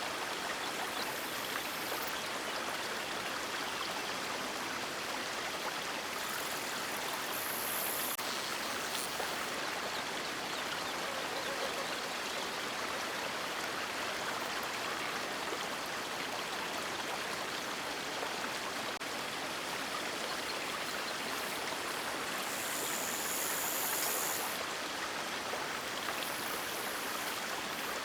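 River water rushing and splashing steadily, with a few brief brighter, hissier swells.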